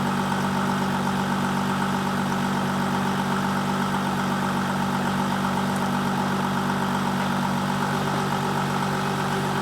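The 2014 Audi A6 TDI's 3.0 L V6 diesel is idling steadily, still warming up a couple of minutes after a cold start in 16 °F air.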